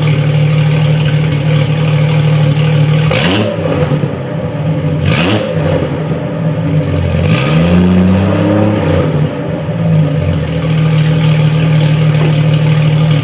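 1998 Jeep Cherokee XJ engine, straight-piped with the muffler cut off, idling and revved: two quick blips about three and five seconds in, then a longer rev that climbs and falls back to idle around the middle.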